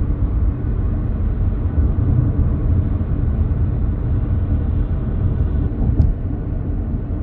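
Steady low rumble of a road vehicle driving: engine and tyre noise, with a brief click about six seconds in.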